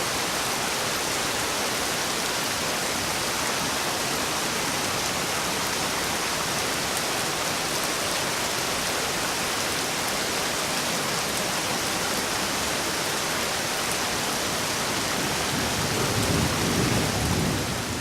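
Steady rain falling, an even hiss of many drops. About two seconds before the end, a low rumble swells briefly and the sound gets louder.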